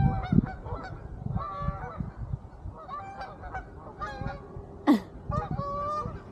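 Geese honking: a run of repeated calls from several birds, the loudest a sharp call about five seconds in.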